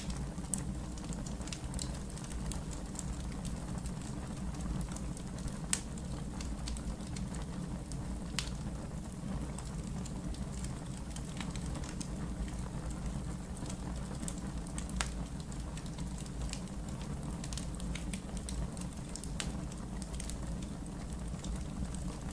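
Logs burning in a fireplace, crackling with many irregular sharp pops over a steady low rumble of the flames; a few pops stand out louder.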